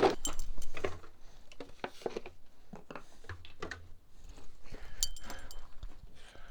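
Small hard objects being handled and set down: a string of short clicks, clinks and rattles at irregular intervals.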